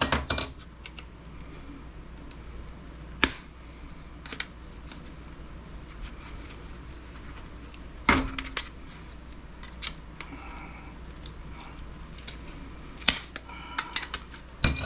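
Metallic clicks and clinks as small steel plates are pried off a computer motherboard, sparse at first with sharper strikes about three and eight seconds in, then a quick cluster near the end.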